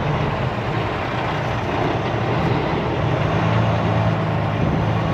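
Semi-truck's diesel engine running steadily, a low drone heard from inside the cab, getting a little louder about three seconds in.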